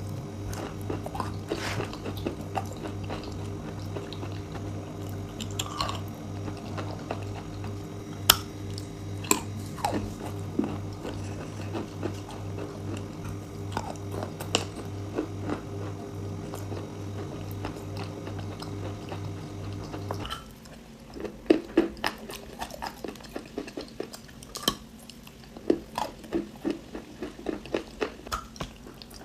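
A person biting and chewing crunchy chalk-like clay, with many sharp crunches. A steady low hum underlies the crunching until it stops abruptly about two-thirds of the way through.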